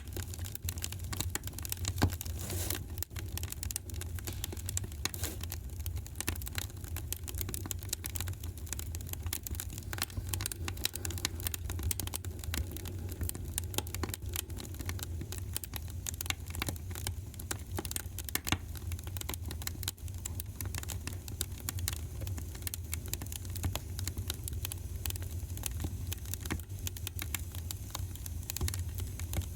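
Wood fire crackling in a fireplace: dense, irregular sharp pops and snaps over a steady low rumble of the flames, with a few louder pops, one about two seconds in.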